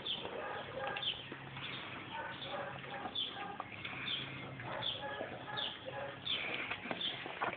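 Several huskies eating, with many short squeaky, pitched calls, about two a second, over scattered clicks.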